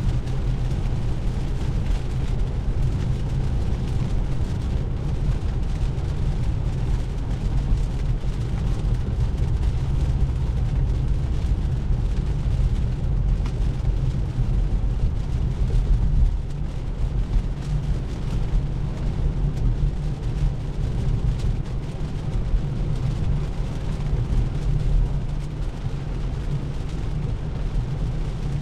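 Steady low road rumble with tyre and spray hiss from an electric Tesla Model 3 driving on a rain-soaked road; there is no engine note.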